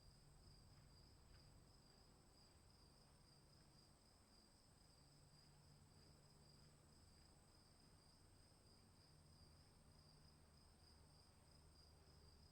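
Faint, continuous chorus of crickets chirping in an unbroken high-pitched trill, over a low steady hum.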